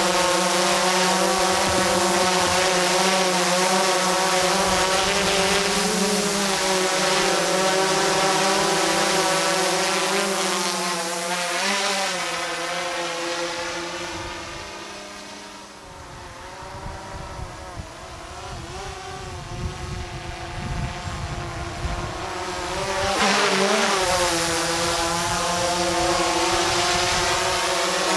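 DJI Mavic 2 quadcopter's propellers giving a steady, loud pitched buzz. The buzz fades away around the middle while wind rumbles on the microphone, then comes back loud a few seconds before the end.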